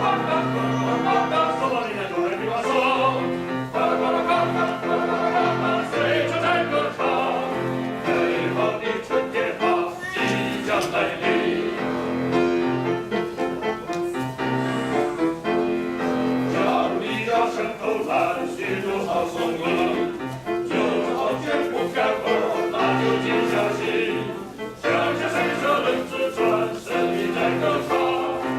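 Small male vocal ensemble singing in harmony with piano accompaniment.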